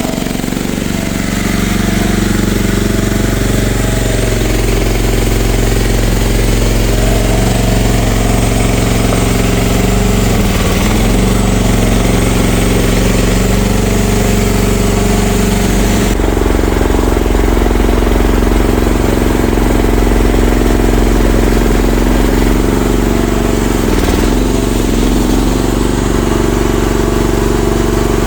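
Engine of a CFG MX15RX mini excavator running steadily with a rattly clatter. Its tone shifts abruptly about sixteen seconds in, and the pitch dips briefly twice.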